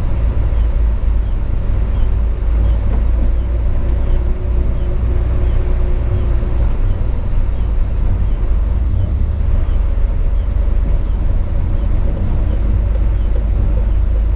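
Hino 500 FM 260 JD ten-wheel truck's six-cylinder diesel engine running steadily while driving, heard from inside the cab as a loud, even low rumble mixed with road noise.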